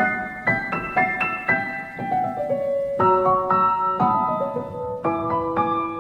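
Solo piano music: a melody of struck notes, each ringing and fading, over chords, a few notes a second.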